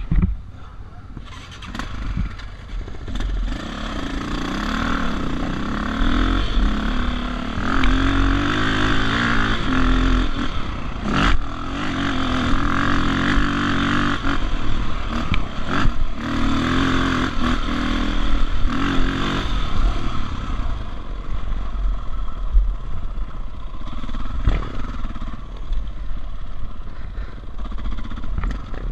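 Dirt bike engine riding off and running along a trail, its pitch rising and falling over and over as the throttle is worked. About twenty seconds in it settles quieter at lower revs. A few sharp knocks are heard along the way.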